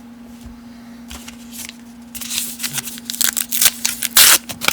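1990 Upper Deck baseball cards being flipped and handled, a rapid run of crisp card slaps and rustles that starts about two seconds in after a quieter stretch, over a faint steady hum.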